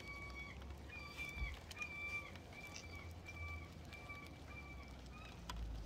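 A bird calling a steady series of short, level-pitched notes, about one every three-quarters of a second, each dipping slightly at its end. Faint clicks sound here and there over a low background rumble.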